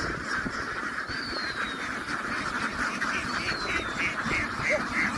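A large flock of ducks quacking together in a dense, continuous din. A quicker run of calls comes about three seconds in, and a thin, high, falling whistle is heard twice.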